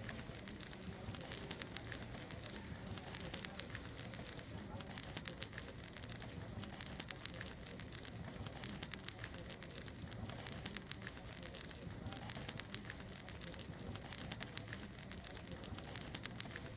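Wood bonfire crackling, with frequent irregular sharp pops over a steady hiss.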